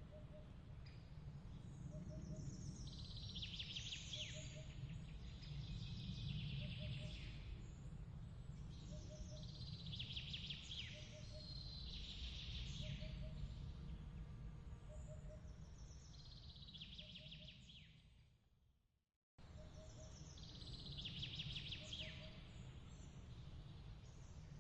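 Ambience bed of birds chirping in short phrases every few seconds over a low rumble, with a soft double pip repeating about once a second. About 18 seconds in it all fades out to a brief moment of silence, then starts again, as at the loop point of a looped recording.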